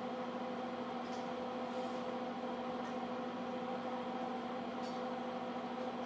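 Steady machine hum with a constant pitch, holding level throughout, with a few faint clicks.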